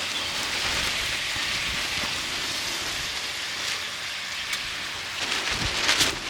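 Pork belly frying in fat in a pan over a campfire: a steady sizzle, with a few sharper crackles near the end.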